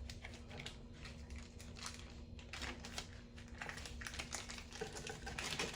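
Packaging rustling and crinkling as a camera strap is unpacked and handled, in irregular bursts, loudest near the end.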